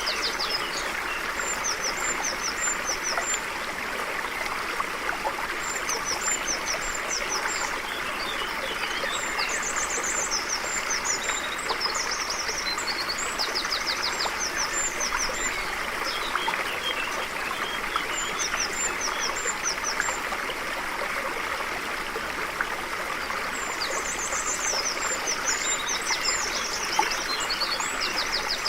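A stream flowing steadily, with birds singing short, high, rapid trilled phrases every few seconds over the rush of the water.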